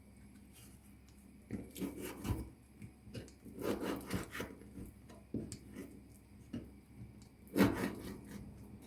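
Irregular scraping and rubbing strokes come in a few short bunches; the loudest is near the end.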